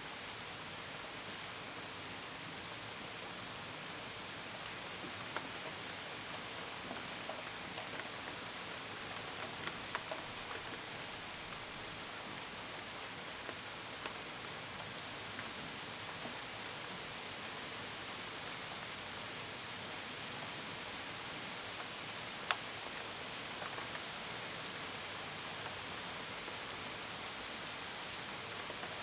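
Steady gentle rain with scattered sharper drops pattering on a window and gutters, one louder drip about two-thirds of the way through. Crickets chirp faintly in pulses behind it.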